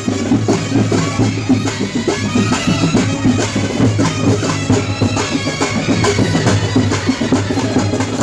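Live procession music: drums beating a fast, even rhythm under a reed wind instrument playing a wavering melody over a steady drone.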